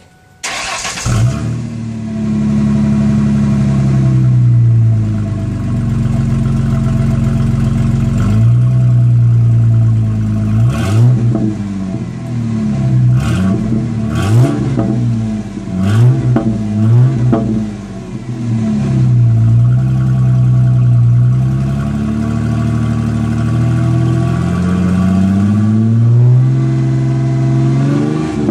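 2004 Ford Mustang's 3.8-litre V6 exhaust, with an Edelbrock universal muffler on the left pipe, starting up about a second in and settling to a steady idle. It is then blipped repeatedly, each rev rising and falling quickly, and near the end it is given one slower, longer rev.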